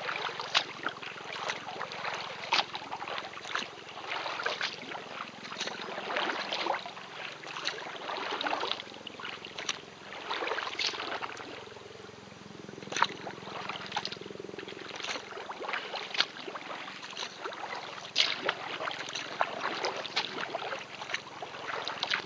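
Kayak paddle strokes dipping and splashing in calm river water, a splash about every second, with water running and dripping off the blades in between.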